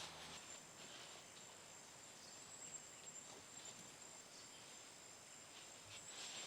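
Near silence with a faint, steady high-pitched insect trill and a few soft ticks.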